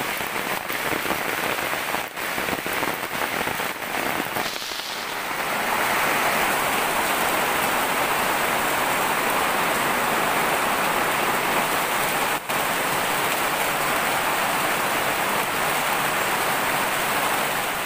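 Heavy rain pouring steadily, with scattered drip taps at first. About five seconds in it grows louder and more even.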